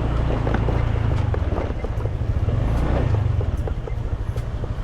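Motor scooter engine running steadily while riding, with wind on the microphone.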